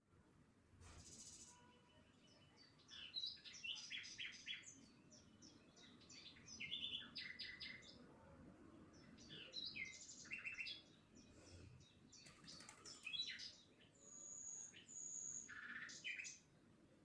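Faint birdsong: small birds chirping in quick runs of short high notes, with two held whistled notes near the end.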